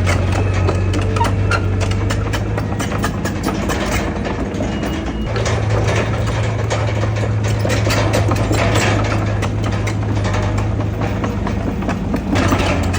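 Heavy diesel engine of earthmoving machinery running with a deep, steady hum, over a scatter of metallic clanks and rattles. The engine eases off about four seconds in and picks up again a second later.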